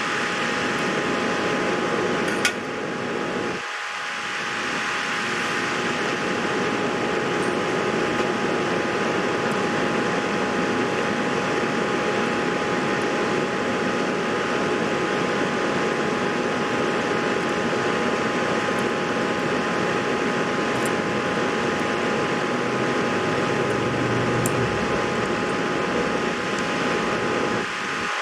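Steady whir of a fan-like machine with a few steady tones in it, and a single sharp click about two and a half seconds in.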